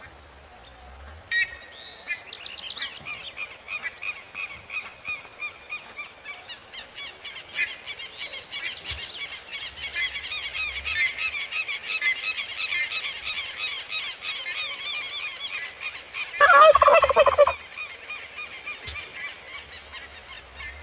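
Southern lapwings (quero-quero) calling in a fast, continuous stream of shrill repeated notes. A turkey gobbles loudly once, for about a second, near the end.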